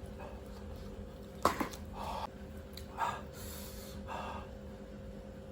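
A person's several short, sharp gasping breaths through the mouth, the kind drawn after very spicy noodles, with a sharp click just before the first.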